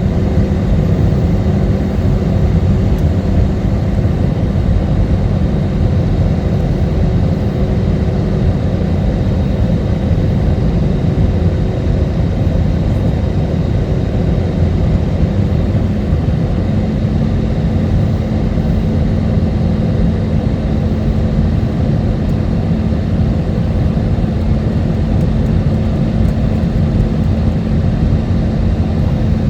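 Airbus A320neo cabin noise on approach: a steady, loud roar of engines and airflow heard from inside the cabin, with a low hum that steps up slightly in pitch about halfway through.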